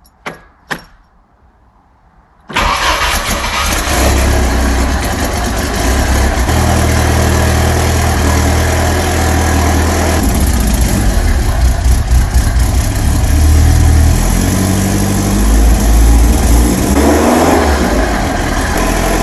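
A couple of light clicks, then about two and a half seconds in the Lotus Esprit Turbo's 2.2-litre turbocharged four-cylinder engine catches on its first start after a rebuild and keeps running at about 1,000 rpm, its speed shifting a few times.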